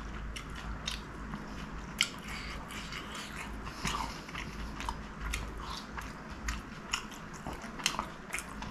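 Close-miked chewing of chicken samosa, with many small moist mouth clicks and crackles, the sharpest about two seconds in and near the end.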